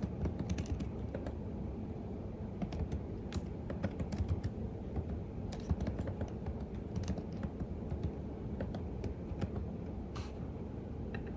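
Typing on a computer keyboard: irregular key clicks at an uneven pace, with a slightly longer, louder keystroke about ten seconds in, over a steady low background rumble.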